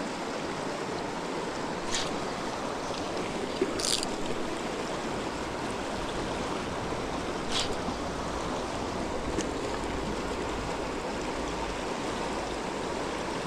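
Creek water running steadily, with a few brief sharp clicks.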